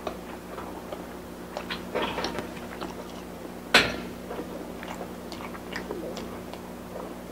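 Close-miked chewing and wet mouth sounds from eating fried dumplings, with scattered small clicks. A little under four seconds in comes one sharp tap: wooden chopsticks striking the wooden board as they pick at the food.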